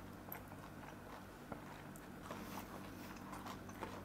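Two people chewing mouthfuls of kimbap (seaweed-wrapped rice rolls) close to the microphone: soft wet mouth sounds with small crunchy clicks, which come more often in the second half.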